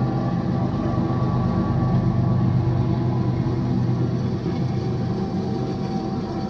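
BNSF intermodal freight train passing: the steady tones of the diesel locomotives run over a continuous rumble of the train rolling on the rails. The tones weaken about four seconds in while the rolling noise goes on.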